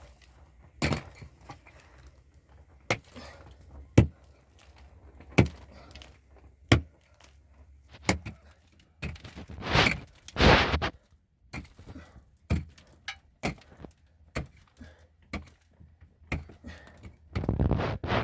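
Irregular sharp knocks and thuds of hard objects striking, about one every second or two, with a longer noisy scraping stretch about ten seconds in and another near the end.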